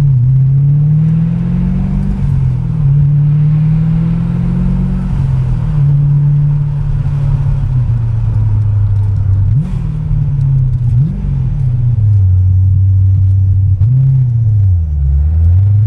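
Supercharged C4 Corvette V8 heard from inside the cabin while driving: the revs climb and drop back at two gear changes, then run steadier at lower revs, with a brief dip and rise near the end.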